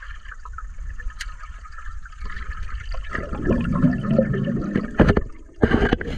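Water gurgling and churning over a steady low rumble, with a few sharp splashes or knocks near the end.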